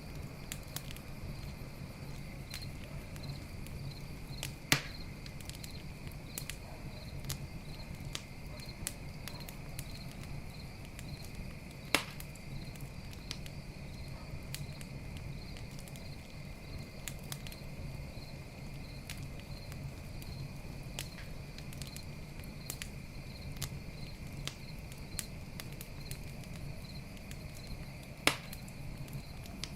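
Campfire crackling with scattered small snaps and three sharp loud pops, over steady pulsing chirps of crickets.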